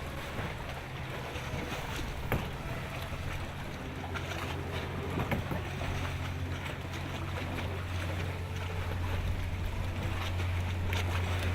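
Wind and water noise on open water, with a steady low hum that grows louder about halfway through.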